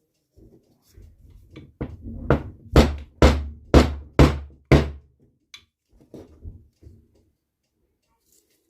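Seven hard knocks, about two a second, as the NSU Quickly engine's crankcase, resting on a wooden block, is struck to work the crankshaft free. A few softer knocks follow.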